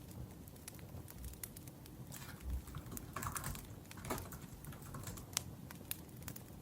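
Typing on a laptop keyboard, a run of quick key clicks, busiest in the middle, over a wood fire crackling.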